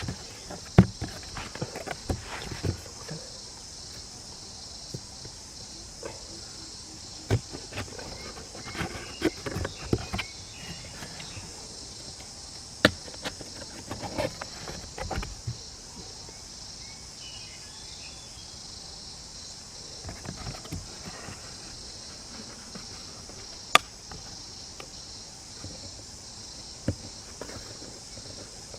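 Steady high insect chirring in the background, with scattered knocks and taps, two sharper ones about 13 and 24 seconds in.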